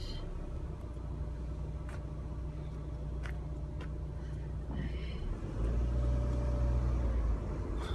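Car engine running at low speed, heard from inside the cabin as a steady low hum. Its low rumble grows louder for about two seconds past the middle, then settles again. There are a few faint clicks.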